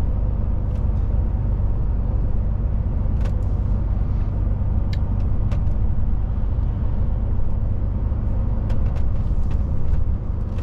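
DAF truck's diesel engine and road noise heard inside the cab while driving: a steady low rumble with a faint engine hum, and a few scattered light clicks and rattles.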